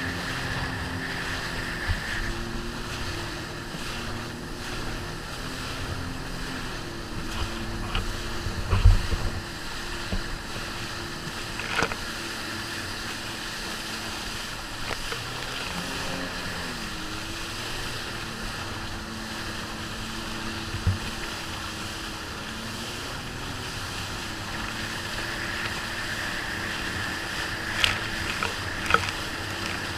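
Jet ski engine running, its pitch shifting up and down as the throttle changes, over wind and water noise, with a few sharp thumps.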